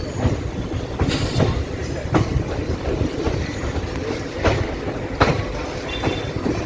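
Passenger train rolling slowly into a station: a low rumble with wheels clacking over rail joints every second or so, at an uneven pace.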